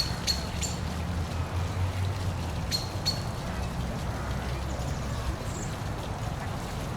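Steady rush of a park waterfall over a low rumble, with a bird giving short, sharp chirps: three in the first second and two more about three seconds in.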